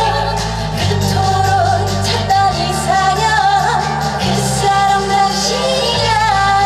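A woman singing an upbeat trot song live over a backing track with steady bass.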